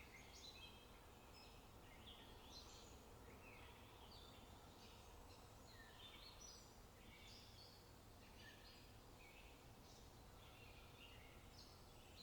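Faint birdsong: many birds giving short chirps and whistles that overlap without pause, over a steady low background rumble.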